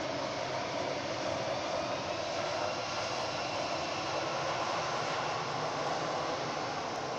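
Jet engine noise of an Airbus A319-112 with CFM56-5B turbofans as it moves past, a steady, even rushing sound with no distinct events.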